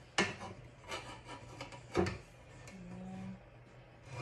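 Parts of a tumbler turner being handled and fitted together by hand: light clicks and rubbing, with two sharper knocks, one just after the start and one about two seconds in.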